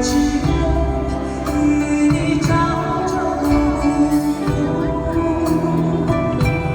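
Live band music: a slow song with held notes over a steady bass line.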